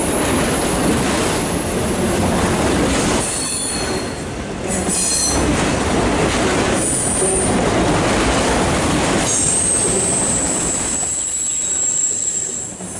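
Loaded autorack cars of a CSX freight train rolling past close by: a steady rumble of steel wheels on rail. High-pitched wheel squeal comes in briefly a couple of times, then holds for about three seconds from around ten seconds in.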